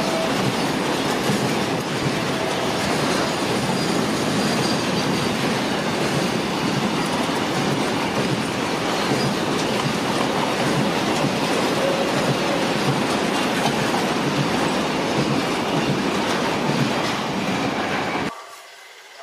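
Covered auto-carrier wagons of a car-carrier freight train rolling past close by at speed: a steady, loud rumble and rattle of wheels on the rails, with a few brief faint squeals. It cuts off sharply near the end.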